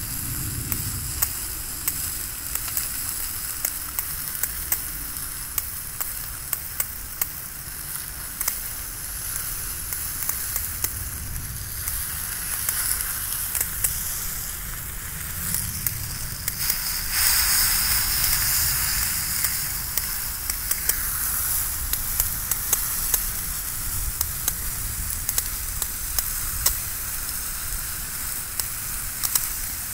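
A burning riding lawnmower crackling and popping while water from a garden hose hisses and sizzles on the hot, burning mower. The hiss swells louder for a few seconds a little past the middle.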